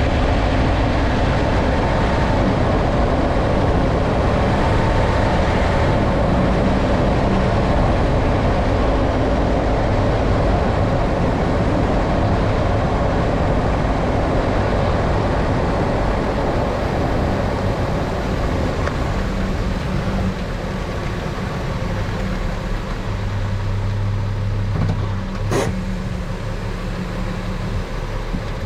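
A pickup truck driving, with steady road and drivetrain noise that eases off gradually over the last dozen seconds as it slows. One sharp click sounds about 25 seconds in.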